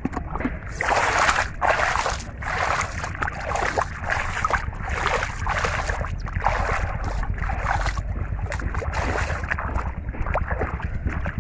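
River water splashing and sloshing in irregular surges, over a low steady rumble.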